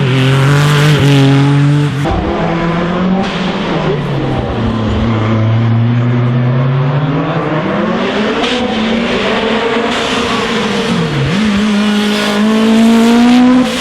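Racing car engine running hard, its pitch falling and rising with throttle and revs, with abrupt drops in pitch about two seconds in and again near the end as it changes gear.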